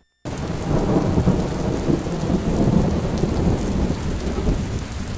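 Thunderstorm: heavy rain with a steady low rumble, cutting in suddenly just after the start.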